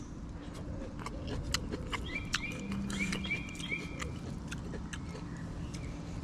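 Close-up chewing and mouth clicks of a person eating with his fingers, with a few small bird chirps repeating about two to four seconds in.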